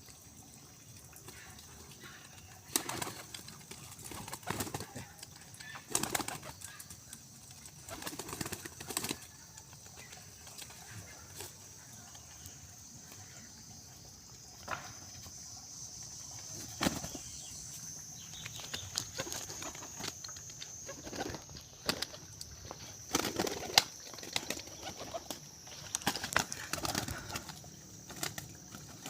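Pigeons flapping their wings in short, irregular bursts of clattering, several times over.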